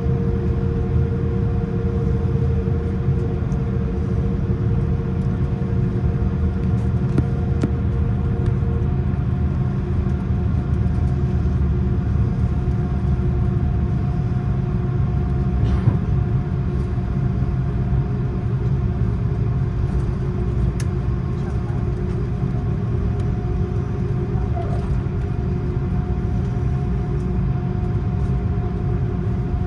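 Cabin noise of an Airbus A330-300 under takeoff power: a loud, steady jet engine and airflow rumble with steady tones above it. One of the tones stops about a third of the way in, and a few faint clicks come through.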